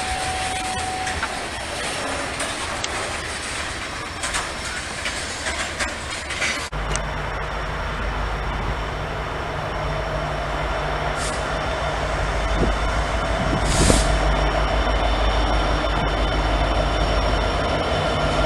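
Norfolk Southern freight train passing, its wheels clicking over the rail joints with some squeal. After an abrupt change about a third of the way in, a diesel locomotive's engine runs with a deep steady drone that grows louder near the end as it approaches.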